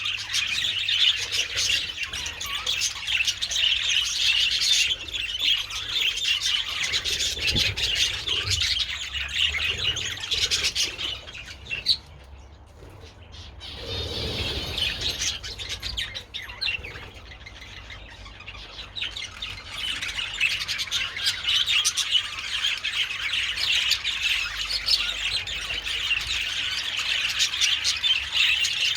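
A flock of budgerigars chattering: a dense, continuous warbling and chirping. It drops to a brief lull about twelve seconds in, then builds again and is busiest near the end.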